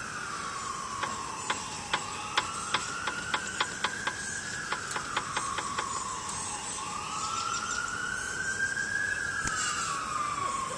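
An emergency vehicle siren wailing in the distance, its pitch slowly rising and falling about every three to four seconds. Short sharp clicks sound over it in the first half.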